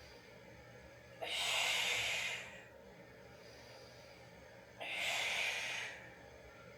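Two forceful breaths, each about a second long with a sharp start, taken about three and a half seconds apart. This is paced Pilates breathing timed to the legs lifting and lowering during double leg lower lifts.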